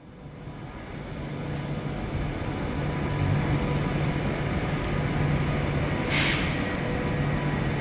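Regional electric train running, with a steady rumble and a faint steady whine, fading in over the first couple of seconds. A short burst of air hiss comes about six seconds in.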